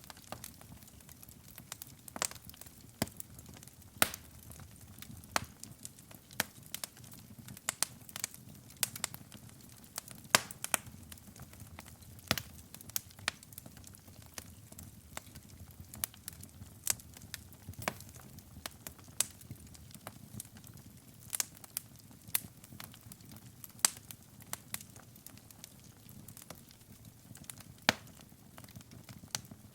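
Wood fire burning in a fireplace: irregular sharp crackles and pops over a soft low rumble of the flames.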